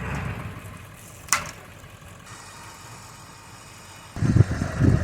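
An engine running with a low, uneven rumble that dies down and comes back loudly near the end, with one sharp crack about a second and a half in.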